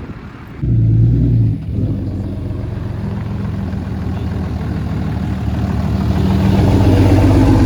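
A Ram 3500 diesel pickup engine starting about half a second in, with a brief high flare of revs for about a second before settling into a steady run that slowly grows louder.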